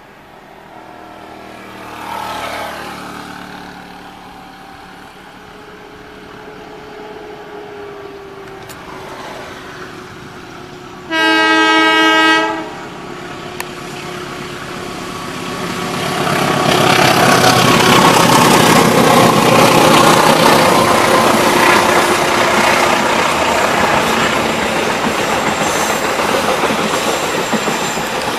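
Diesel-electric locomotive approaching with its engine running, then one loud horn blast of about a second and a half. The locomotive and its passenger coaches then go past, with steady loud wheel-on-rail noise and clatter.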